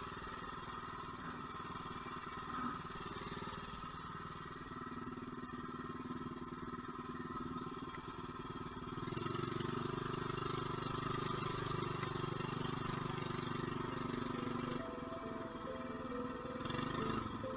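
Mini bike engine running steadily as the bike rides along, getting louder about nine seconds in and dropping back shortly before the end.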